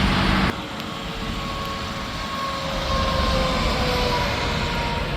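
Interstate highway traffic noise: a loud rush drops off sharply about half a second in, then steady road noise with a faint whine slowly falling in pitch from a passing vehicle.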